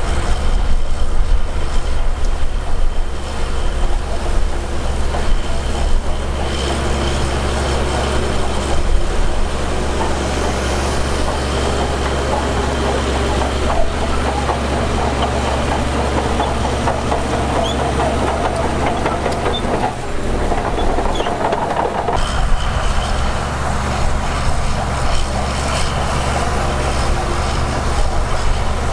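Heavy diesel earthmoving machinery running under load, a deep steady engine rumble with clanking and clatter over it that builds up in the middle of the stretch and eases off near the end.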